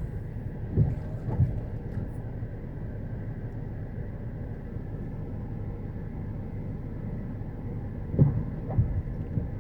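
Automatic car wash machinery running with a low steady rumble between spray cycles, with a few dull thumps about a second in and again near the end.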